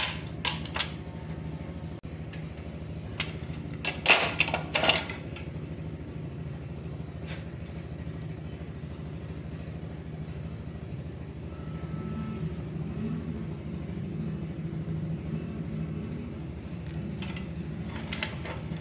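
Metal clinks and clanks of a motorcycle exhaust silencer and tools being handled while it is fitted to the engine's cylinder head, with a cluster of clanks about four seconds in. A steady low mechanical hum runs underneath.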